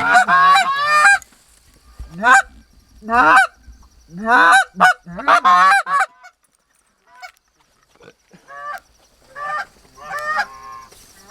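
Canada goose honks and clucks in quick runs of short calls, loud and close, with a break of about two seconds in the middle before fainter calling resumes near the end.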